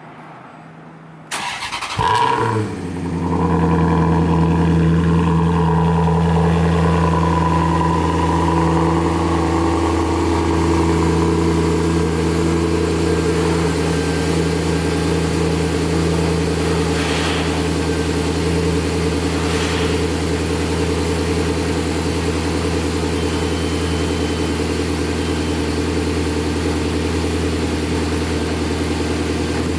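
Maserati Spyder GT's V8 cold-started: the starter cranks briefly, the engine catches and flares up, then settles into a steady high cold idle.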